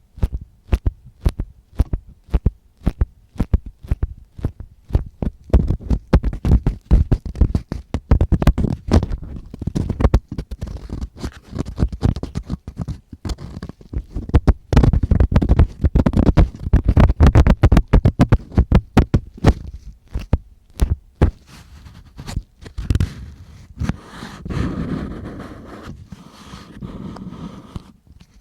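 Close-up ear-cleaning ASMR sounds: an ear-cleaning tool scratching, scraping and clicking against the microphone in quick, dense strokes with low thumps. About 23 seconds in it changes to a softer, steadier rubbing.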